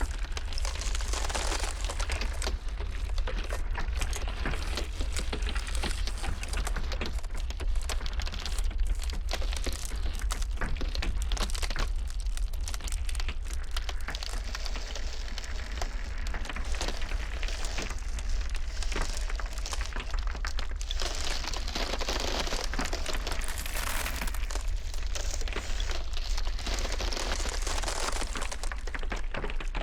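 Ice crackling and cracking, a dense, continuous run of small snaps and clicks over a steady low wind rumble, as of a blizzard.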